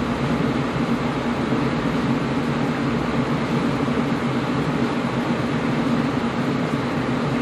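Air conditioner running steadily: an even low hum with a broad hiss of moving air over it, unchanging throughout.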